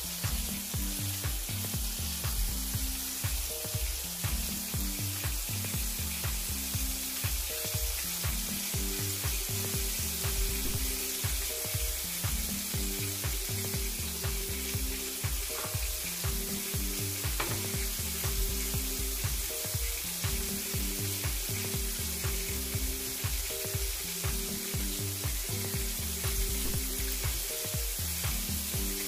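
Hot oil sizzling steadily as food fries in a pan, under background music with a steady beat.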